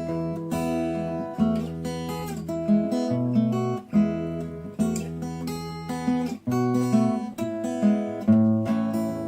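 Acoustic guitar playing an instrumental passage with no singing: picked and strummed notes with sharp attacks over a bass line that changes note every second or so.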